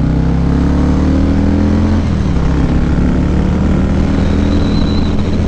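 Harley-Davidson V-twin motorcycle engine pulling under way, its pitch climbing for about two seconds, dipping briefly, then holding steady.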